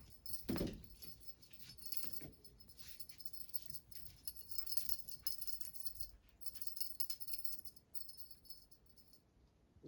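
A small jingle bell jingling in irregular shakes, stopping shortly before the end, with a single louder dull thump about half a second in.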